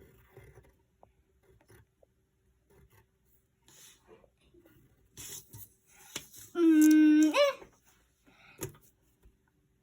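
Pencil scratching on paper in short strokes. About seven seconds in, a voice hums a held note for about a second that slides up at the end; this is the loudest sound.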